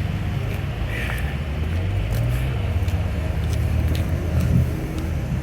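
A vehicle engine idling: a steady low rumble with a slightly wavering pitch.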